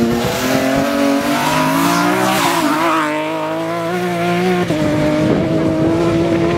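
Race car engine under hard acceleration, its pitch climbing steadily, then dropping about two thirds of the way through at a gear change and holding steady. A burst of tyre squeal comes in the middle.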